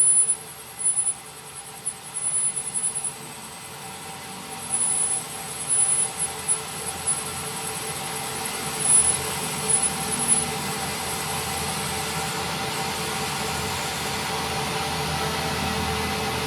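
A workshop machine running steadily with a constant hum and whine. Short louder bursts come and go in the first half.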